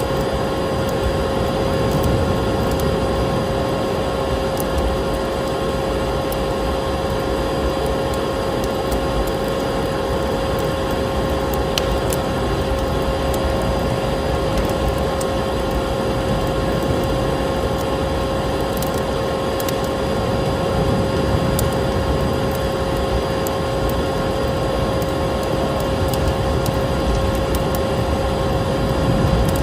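Vacuum cleaner running steadily with a constant humming whine, layered with the crackle and occasional sharp pops of a wood fire burning in a fireplace.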